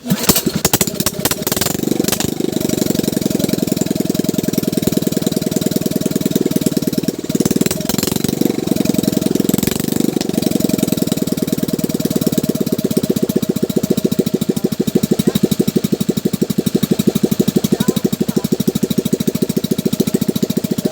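Small gasoline boat engine catching on a pull-start and running with rapid, even firing pulses; the first couple of seconds are uneven before it settles into a steady run.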